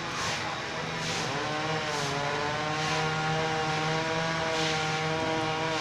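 Two-stroke chainsaw engine revving up about a second in, then running steadily at high speed while cutting a fallen tree trunk.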